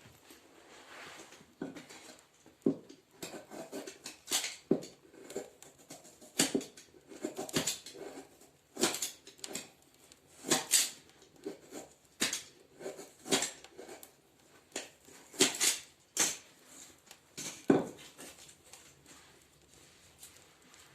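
Irregular sharp knocks and crackles from a wood-burning fireplace stove being lit, roughly one a second and uneven in strength.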